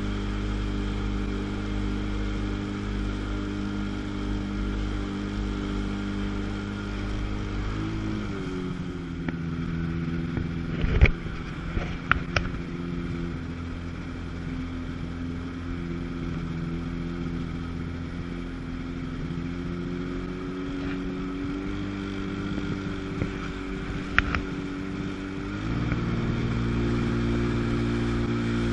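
Two-stroke jet ski engine running at steady revs. It eases down in pitch about a third of the way in and picks up again near the end, with a few sharp clicks in between.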